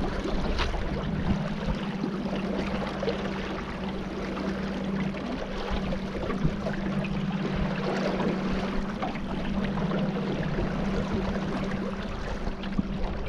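Boat underway on the river: a steady low motor hum under a constant rush of water and wind noise.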